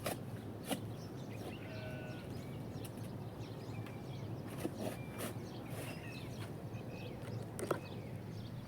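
Outdoor ambience: a steady low hum with scattered sharp knocks and clicks, and a few short high chirps that sound bird-like.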